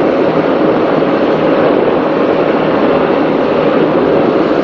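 Offshore racing powerboat running at speed, heard from on board: a loud, steady engine drone mixed with the rush of wind and water.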